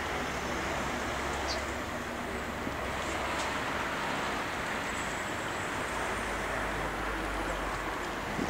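Steady rushing roar of a jet airliner's engines, with a faint high whine that rises slowly and drops away near the end.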